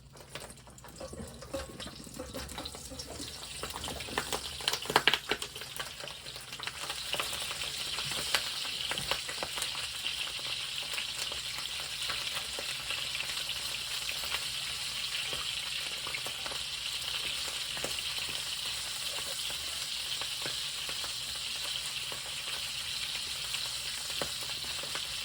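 Brussels sprouts frying in a hot pan: the sizzle builds up over the first several seconds, with a burst of sharp crackles and clatters about five seconds in, then settles into a steady sizzle.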